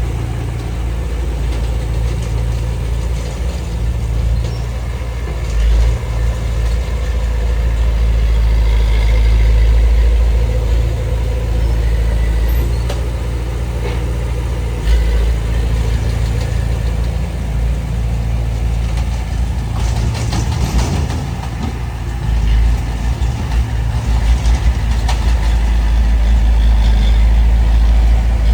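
Diesel engine of heavy earthmoving machinery running steadily at a low, even pitch, with a few sharp metallic clanks about three quarters of the way through.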